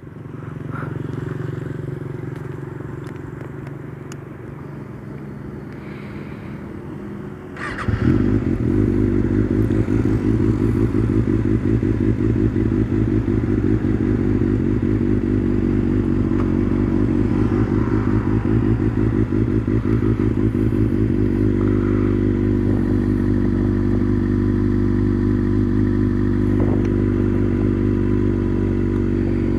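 Kawasaki ZX-6R's tuned inline-four engine idling, then about eight seconds in it gets louder as the bike pulls away and runs under load, holding a steady note with small changes in pitch.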